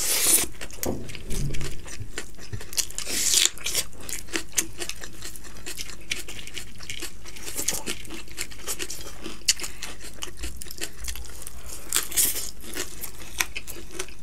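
Close-miked eating of rice and fried vegetables by hand: a steady run of short wet mouth clicks and chewing, with a few louder noisy bursts scattered through.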